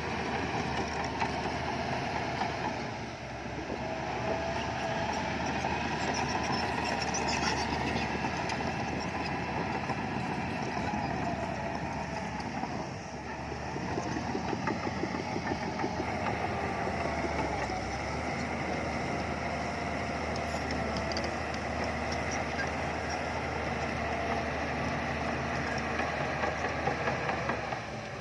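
Diesel engine of a Shantui bulldozer running as it works, its level easing off briefly twice before picking up again.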